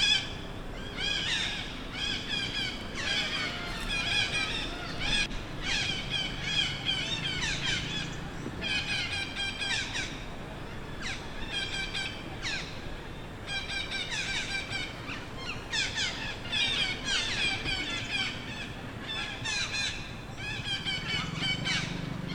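Baby macaque crying: a steady string of high-pitched, wavering squeals in short bouts with brief pauses, the distress cries of an infant begging to nurse and being refused.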